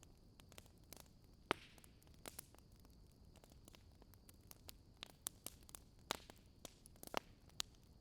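Faint crackling wood fire: irregular sharp pops and snaps, a few louder ones, over a faint steady hiss.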